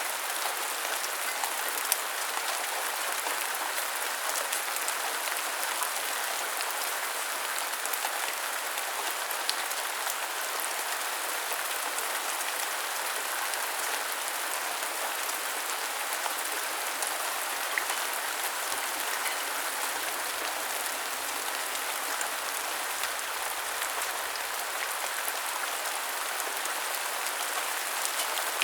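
Steady rain falling: a constant even hiss, with a few louder single drops ticking through it.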